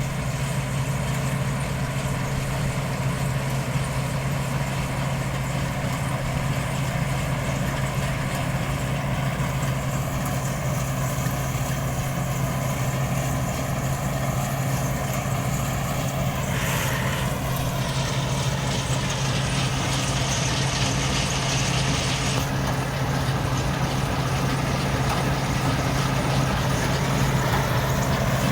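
Diesel engine of harvesting machinery running steadily with a low drone. About two-thirds of the way in there is a brief shift in pitch, then a higher rushing noise that lasts about five seconds and cuts off suddenly.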